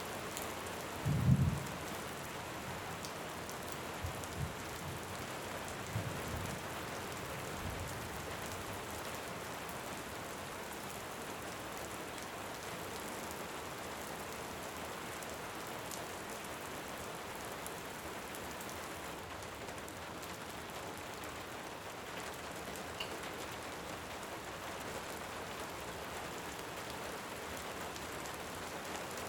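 Steady heavy rain. A short, loud low thunder rumble comes about a second in, and a few fainter low rumbles follow over the next several seconds.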